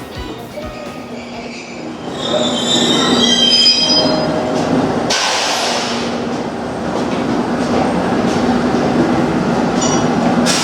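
Electric train running through a station, with a steady hum. High wheel squeal starts about two seconds in, and a short hiss follows a couple of seconds later.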